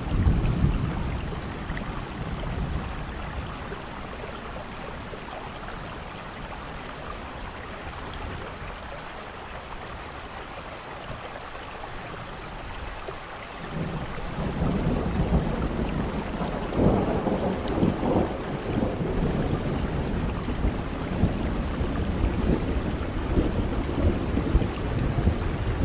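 Steady rain in a thunderstorm, with rolls of thunder. A rumble comes right at the start, then dies away under the rain. About halfway through a long, deep rumble builds and rolls on, swelling and fading.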